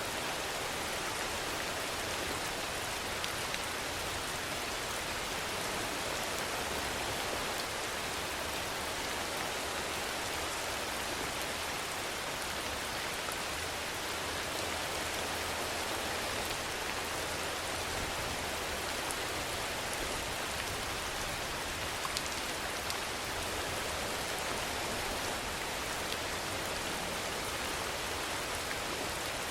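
Steady rainfall, an even hiss of rain on surfaces with a few faint individual drop ticks, unchanging throughout.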